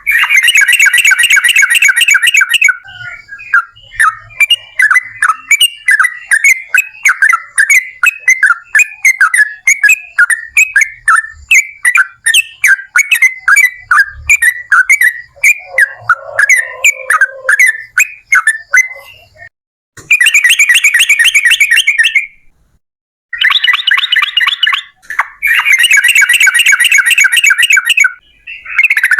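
Yellow-vented bulbul (trucukan) singing long, very rapid trills. Several bursts of a few seconds each come near the start and in the last third, separated by a long stretch of quick chattering notes.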